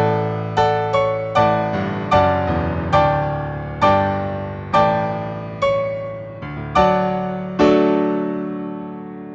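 Solo piano playing the close of a piece: single notes and chords struck under a second apart, slowing steadily, then a final chord about eight seconds in that rings and fades away.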